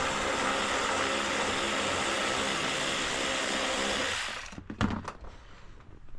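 A small electric power tool's motor running at a steady speed, then stopping abruptly about four seconds in, followed by a few short knocks.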